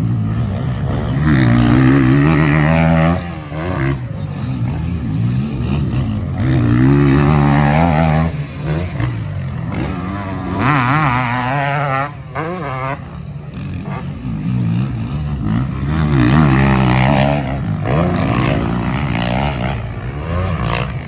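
450cc four-stroke motocross bikes racing on the track, engines revving hard and changing pitch through gear changes and jumps, swelling loud about four times as riders come past.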